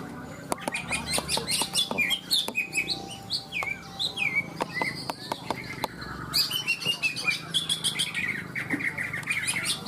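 Several green leafbirds (cucak ijo) singing at once: a dense jumble of chirps, fast trills and downward-sliding whistles, with a few sharp clicks.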